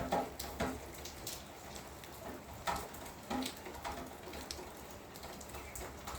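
Rain dripping: irregular single drops hitting a hard surface, over a faint steady hiss of rain.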